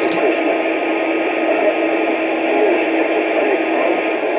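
Steady, dense hiss like radio static, squeezed into a narrow, phone-like band, with a faint steady hum tone and faint wavering murmur under it.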